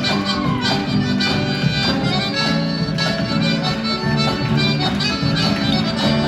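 An Argentine chacarera played by two musicians: a lively reedy melody over a rhythmic accompaniment.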